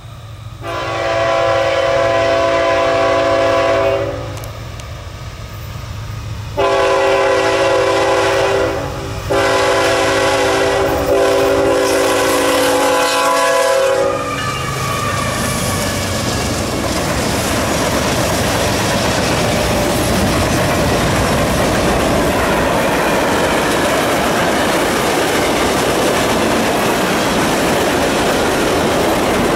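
Diesel freight locomotive's air horn blowing three long blasts, the last the longest, as the train nears a grade crossing: the crossing warning signal. After the horn stops, the train rolls past with a steady rumble and clack of freight-car wheels on the rails.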